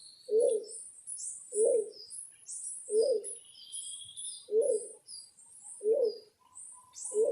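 A dove cooing in a slow, even rhythm, six coos about a second and a half apart, over many small birds chirping high and fast.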